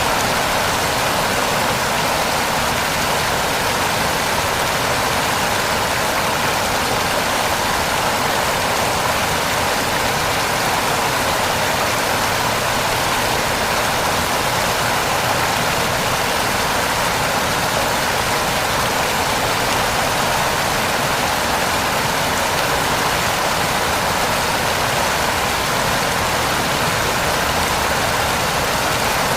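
Heavy rain pouring steadily, an even hiss that does not change.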